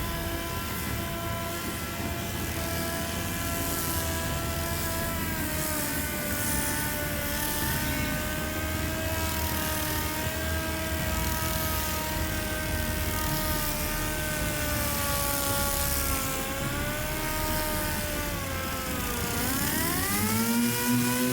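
A 6-inch pneumatic air grinder with 80-grit paper running at high speed on a fiberglass boat hull, giving a steady whine whose pitch wavers as it is worked. Near the end its pitch sags sharply under load and then spins back up.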